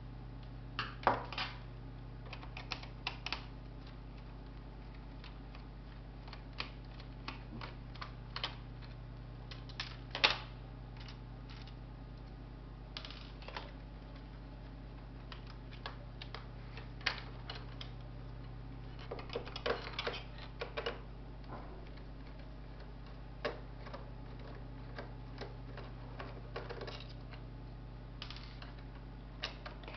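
Irregular small clicks and taps of laptop parts being handled during disassembly: plastic and metal pieces knocking and snapping, with the sharpest knocks about a second in and about ten seconds in and a quick cluster of clicks past the middle. A steady low hum runs underneath.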